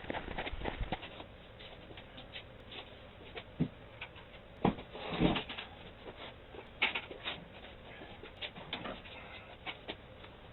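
Irregular knocks and light clatters, like things being handled and set down, with a few duller, louder hits near the middle.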